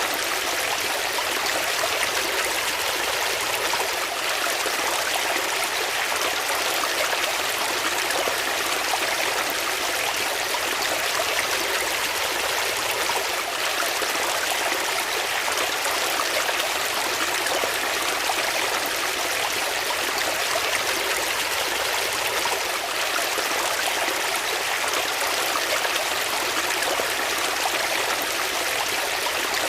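Flowing water running steadily over rocks, a continuous even rush and trickle like a small stream.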